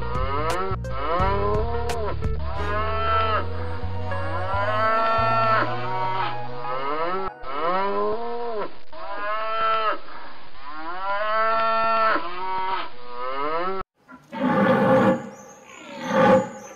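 An animal calling over and over, each call a pitched cry that rises and falls, about every second and a half. Near the end the calls cut off and plucked guitar music begins.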